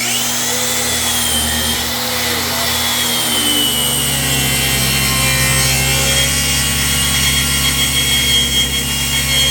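Electric saw motor spinning up with a rising whine right at the start, then cutting steadily through a slab of very hard black walnut. Its pitch sags a little under the load of the cut.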